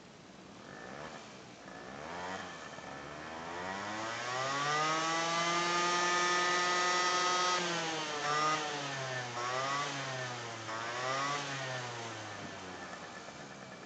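Honda Live Dio ZX scooter's 50cc two-stroke single-cylinder engine revving. Its pitch climbs steadily and holds high for a few seconds, then drops. It is blipped three times, then falls away and stops shortly before the end.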